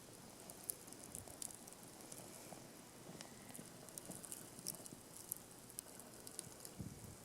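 Wood campfire crackling faintly, with many small, irregular pops and ticks over a soft hiss.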